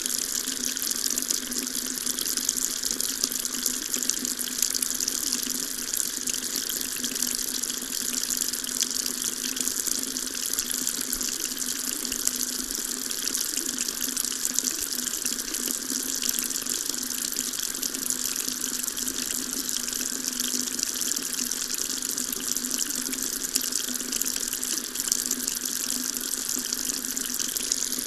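Water tap running steadily into a sink, an even, unbroken splashing hiss.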